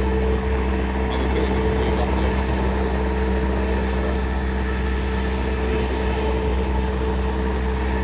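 Guimbal Cabri G2 light helicopter running steadily, its piston engine and rotor giving an even, unchanging drone.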